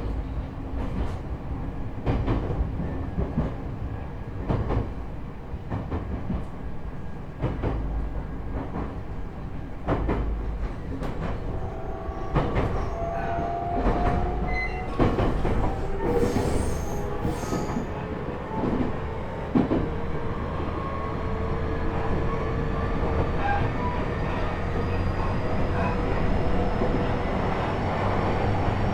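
JR East E127 series electric train car running under power, its Toyo Denki GTO-VVVF inverter and traction motor gear whine rising steadily in pitch as the train gains speed, with repeated wheel clicks over rail joints. This car's gears whine with an extra tone a semitone above the usual minor-seventh pair of gear tones, a known abnormal noise on this unit.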